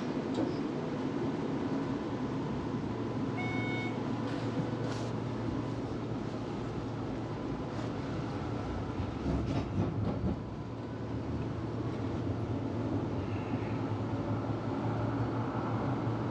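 Melbourne tram running along the rails, heard from inside the car: a steady rumble with scattered clicks and knocks. A brief tone sounds about three and a half seconds in, and a few louder knocks come around nine to ten seconds in.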